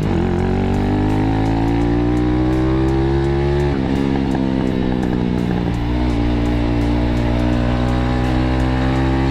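Single-cylinder motorcycle exhaust through a modified stock muffler with its outlet opened to 51 mm, riding on the road and accelerating: the engine note climbs steadily, drops about four seconds in at a gear change or throttle lift, then rises slowly again. The note is crisp yet still somewhat deep.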